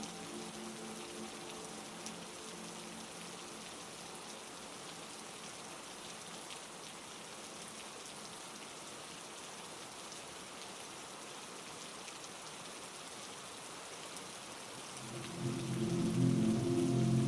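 Heavy rain falling steadily, an even hiss with scattered fine drop ticks. A low droning chord fades out in the first few seconds, and a louder low drone comes in about fifteen seconds in.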